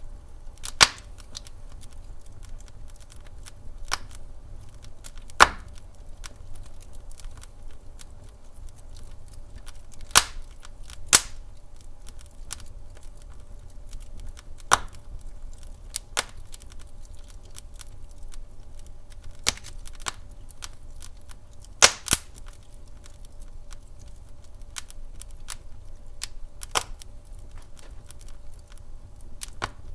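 Wood fire burning in a fireplace, crackling with irregular sharp pops every second or few seconds, a handful much louder than the rest, over a steady low rumble.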